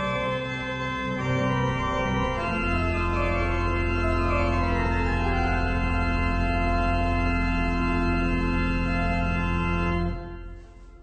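Organ playing sustained full chords, with a run of notes falling in pitch midway, then ending on a long held chord that cuts off about ten seconds in and rings away in the room.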